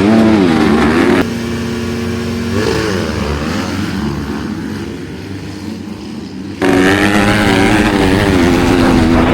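Dirt bike engines revving, their pitch rising and falling. The sound changes abruptly twice, about a second in and about two-thirds of the way through.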